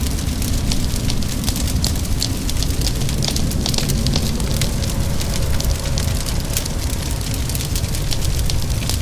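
Wood fire crackling in a fireplace, with frequent small sharp pops over a steady low rumble, and rain in the background.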